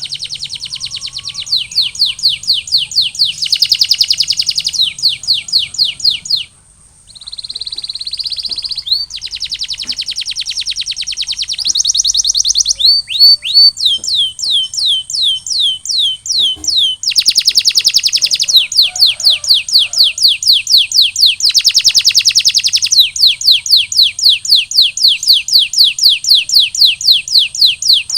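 Canary singing a long song of rapid trills and rolls. Each phrase is a fast run of identical repeated notes that changes to a new note type every second or two, with a short break about six and a half seconds in.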